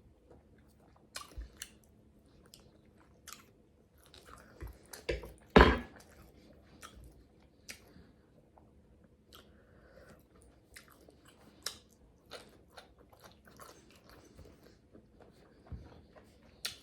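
Close-miked mouth sounds of someone eating a salmon and asparagus meal: chewing and lip-smacking in scattered wet clicks, with one loud knock about five and a half seconds in.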